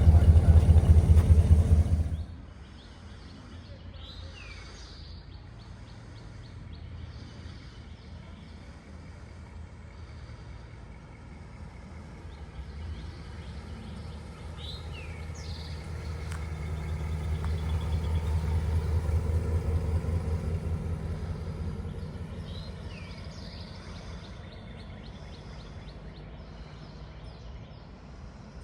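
A 1956 Ford Thunderbird's 312 cubic inch V8 running loud and close on its dual exhaust for about two seconds, then cutting off sharply. Afterwards birds chirp now and then, with a few quick falling calls, while a car's engine passes by, growing louder a little past the middle and fading away.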